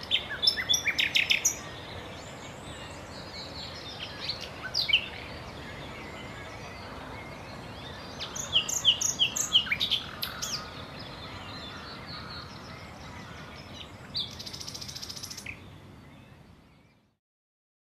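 Birds singing in the open: short chirps and trills in several bursts over a steady outdoor background hiss, fading out near the end.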